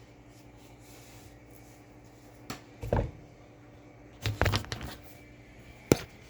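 Plastic knocks and clicks of vacuum cleaner hose and wand attachments being handled and fitted together, the vacuum not yet running: a single click, then a pair of knocks, a quick cluster of clatter, and one sharp click near the end.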